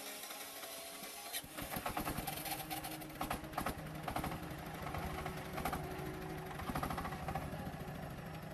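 An engine running with a fast, even beat, with a few sharp clacks in the first few seconds.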